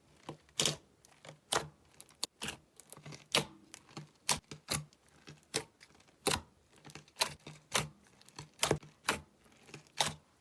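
Slime being pressed and worked by hand, popping with sharp, irregular clicks about two or three times a second.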